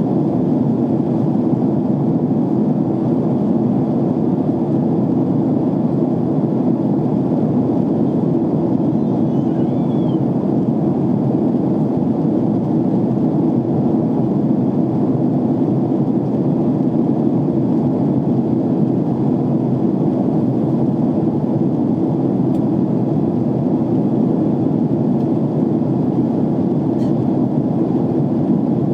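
Steady cabin noise of an airliner in flight: the even, low rush of the jet engines and airflow over the fuselage, heard from a passenger seat.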